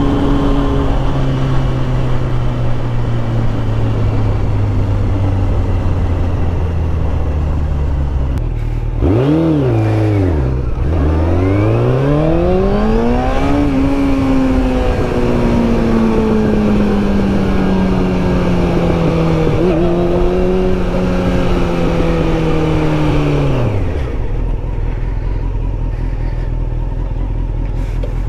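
Motorcycle engine heard from the bike. Its note falls slowly, dips and climbs sharply between about nine and thirteen seconds in as it revs up, then sinks gradually. The engine note stops about 24 seconds in, leaving only a steady low rumble.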